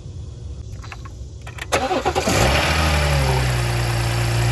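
BMW B58 3.0-litre turbocharged inline-six starting: a few clicks, then the engine catches a little under two seconds in, flares and drops back, and settles into a steady idle.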